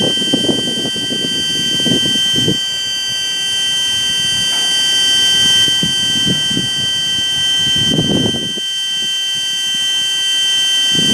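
BNSF end-of-train device (EOT) giving off a steady, shrill multi-pitched whine, the sound called the most annoying in the world. Irregular gusts of wind rumble on the microphone underneath.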